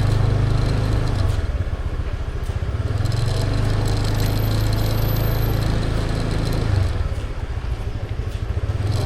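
Motor scooter engine running at low speed with a steady hum that twice turns into a slower, choppier putter, about a second in and again near seven seconds in.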